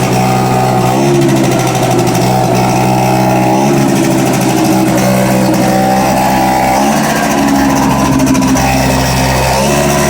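Honda SH50 City Express scooter's small two-stroke engine running on its first start after a full restoration. The engine speed steps up and down a few times.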